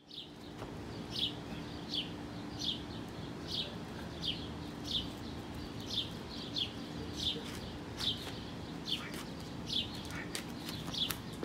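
A bird calling outdoors, repeating one short, high, slightly falling chirp at a steady pace of about one every three-quarters of a second. A low steady hum runs underneath.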